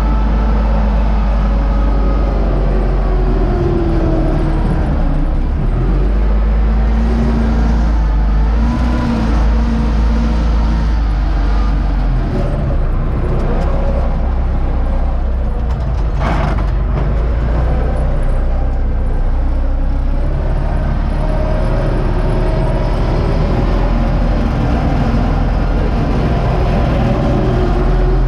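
U650 tractor's four-cylinder diesel engine running steadily under load while pulling a SUP-21 wheat seed drill. There is a short clatter a little past halfway through.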